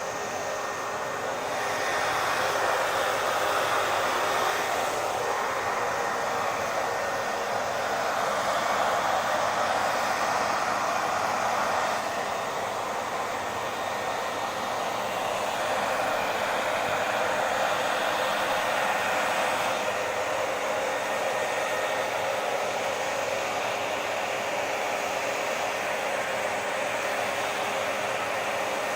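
Hair dryer blowing continuously: a steady rushing hiss with a faint underlying hum, its loudness shifting slightly every few seconds.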